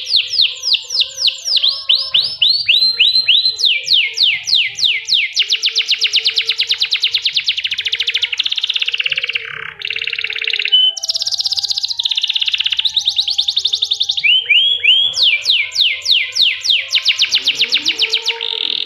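Domestic canary singing a long song of rapid trills: runs of fast repeated downward-sweeping whistled notes that change speed and pitch every second or two, with a couple of brief breaks.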